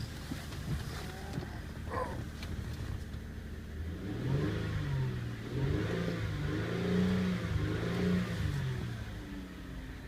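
2008 Ford Fusion's 3.0-litre V6 idling, then revved up and back down several times from about four seconds in, before settling back to idle near the end.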